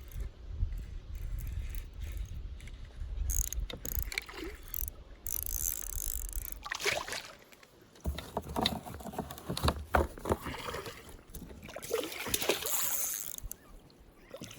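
Scattered knocks, clicks and rustling of handling in a kayak, thickest in the second half, over a low rumble of wind on the microphone in the first half.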